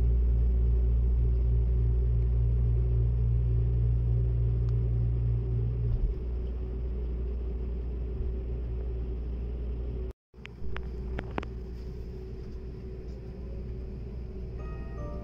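Cabin running noise of a Seibu Laview limited express train: a steady low rumble with a faint constant hum, which eases off about six seconds in. Near two-thirds of the way through it cuts out for a moment, then goes on more quietly with a few light clicks.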